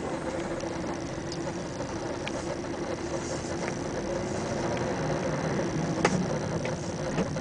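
Car engine running, heard from inside the cabin as a steady hum with a faint high whine, and a light click about six seconds in.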